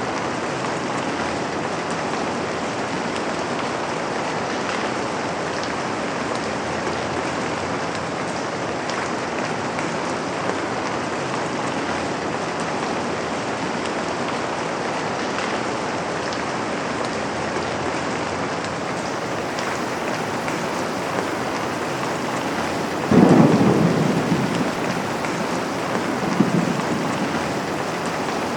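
Steady rain falling. Near the end a sudden clap of thunder rumbles away over a couple of seconds, and a smaller rumble follows shortly after.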